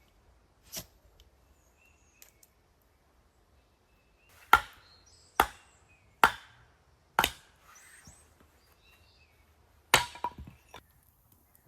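Firewood being chopped by hand: four sharp chops just under a second apart, one more a few seconds later, and a lighter knock about a second in.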